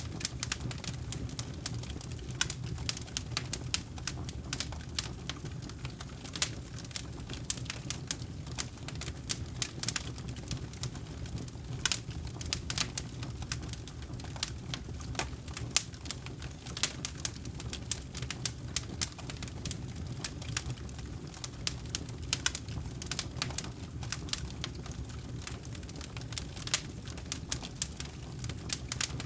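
Campfire burning: wood crackling with irregular sharp pops several times a second over a steady low rumble of the flames.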